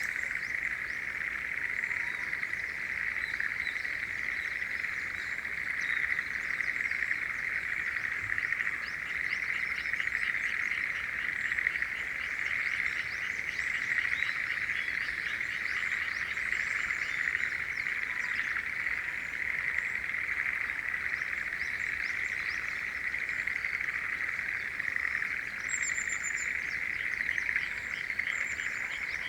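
A dense, unbroken chorus of frogs calling in a newly flooded spring rice paddy, with bursts of quick rattling calls standing out at times. A few high bird calls come in near the end.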